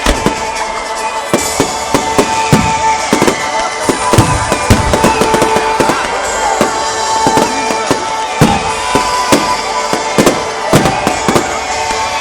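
Fireworks going off in a dense, irregular barrage of bangs and crackles, with music playing at the same time.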